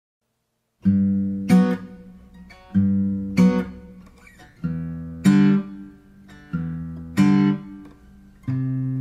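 Silence, then about a second in an acoustic guitar starts strumming chords in a steady, repeating pattern, each strum ringing out and fading before the next: the opening of a song.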